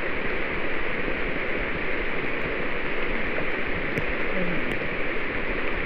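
Steady heavy rain falling on the rainforest, an even hiss with no break.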